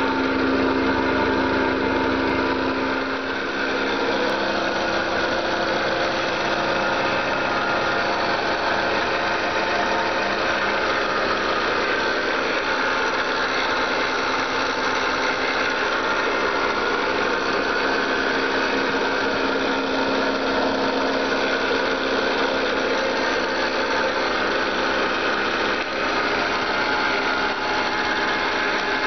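Subaru Sambar's small four-cylinder engine running steadily, heard up close in the engine bay.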